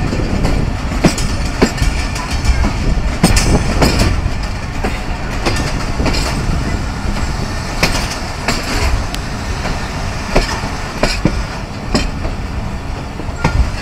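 Passenger train coach running on the track, heard from an open window: a steady low rumble with irregular sharp clacks of the wheels over rail joints as the train pulls into a station.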